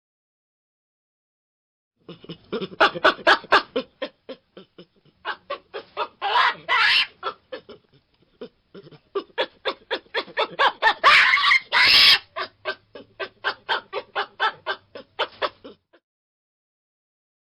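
Baboon calling in a rapid series of short grunting barks, about four to five a second, starting about two seconds in, with louder, harsher stretches twice and stopping near the end.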